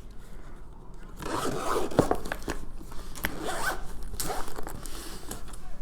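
The double zipper of a soft diamond-painting storage carry case being pulled, a run of zip strokes with clicks, starting about a second in.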